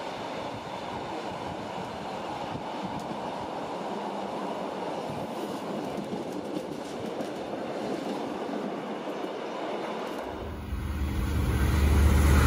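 Rhaetian Railway train running on the station tracks: a steady rumble and clatter of wheels on rail. About ten seconds in it gives way abruptly to a louder, deep rumble that keeps growing.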